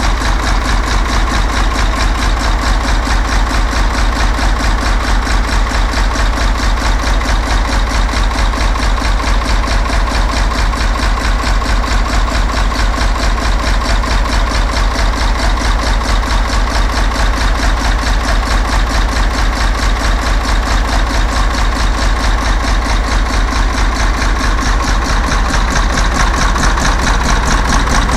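Newly rebuilt six-cylinder air-cooled diesel engine of an Eicher Wotan tractor idling steadily with an even pulsing beat, a little louder near the end.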